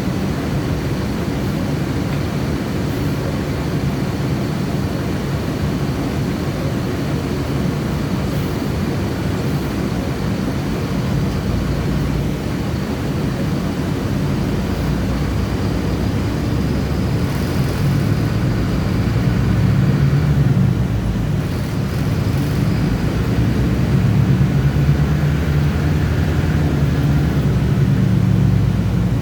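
Bus engine running while the bus is being driven: a steady low rumble whose note rises and grows louder as it pulls away about two-thirds of the way through, and again near the end.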